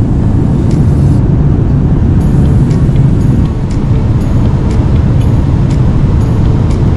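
Steady, loud low rumble of a jet airliner heard from inside the cabin, the engine and airflow noise of a passenger plane in flight or on its takeoff run.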